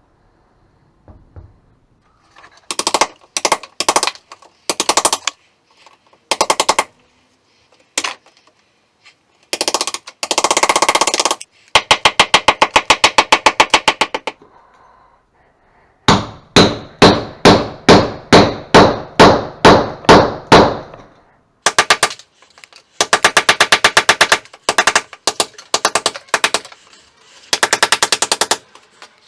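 Electric hammer drill in chisel mode chipping a channel into a brick and plaster wall. It runs in stop-start bursts of fast, rattling blows, several seconds long in the middle.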